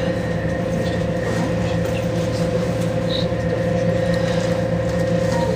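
Passenger train running at speed, heard from inside the carriage: a steady rumble and hum with a constant whine.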